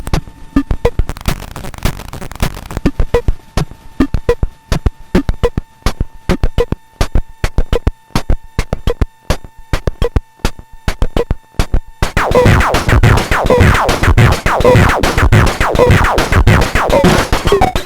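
Bastl Kastle Drum lo-fi drum machine playing a fast, glitchy pattern of sharp clicks through Korg NTS-3 effects, with a thin steady tone underneath. About twelve seconds in, a much louder, denser, noisy texture cuts in.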